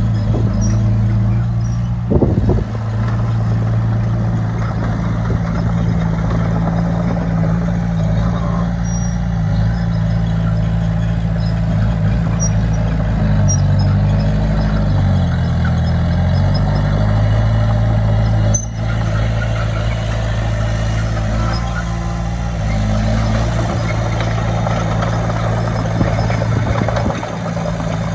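Heavy diesel engines of earthmoving machinery running steadily, their pitch shifting up and down in the middle as revs change. There is one short sharp click about two-thirds through.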